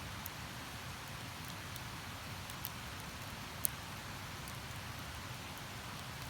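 Wood campfire crackling, with a few sharp pops, the loudest about three and a half seconds in, over the steady rushing hiss of a nearby river.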